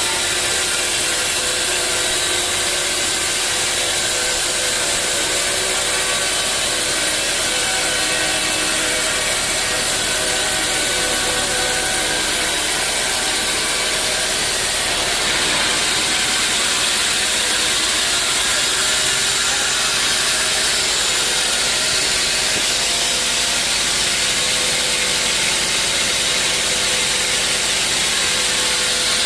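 Sawmill saw cutting lengthwise through a teak log: a steady sawing noise with several held tones underneath, even in loudness throughout.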